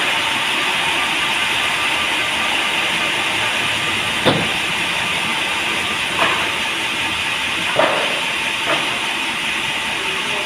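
Sawmill machinery running with a steady, loud hissing noise, with a few short knocks scattered through it.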